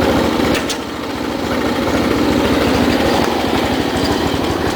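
The small engine of an MTD Yard Machines riding mower running steadily, with a sharp click about half a second in.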